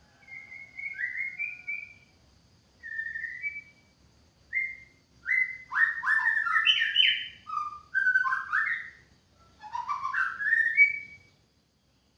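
White-rumped shama singing: a run of clear, whistled phrases of sliding notes, coming in several bursts with short pauses, the fullest and loudest stretch in the middle.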